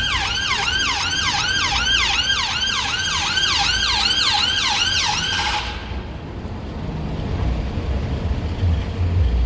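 Emergency vehicle siren in its fast yelp mode, rising and falling about three to four times a second, which cuts off suddenly a little over halfway through and leaves a low rumble of traffic.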